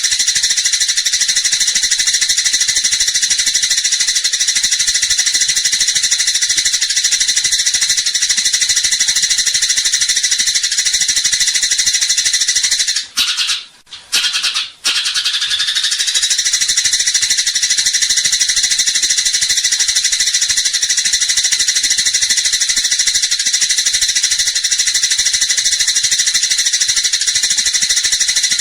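Eurasian tree sparrow giving a loud, rapid, continuous chattering rattle of fighting calls, breaking off for about two seconds near the middle before starting up again.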